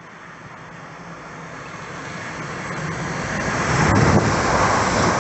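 A train approaching at speed on the main line, its rushing noise building steadily as it nears, with a sharp click about four seconds in.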